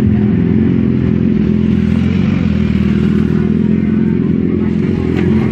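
Motorcycle engine running with a steady, low engine note.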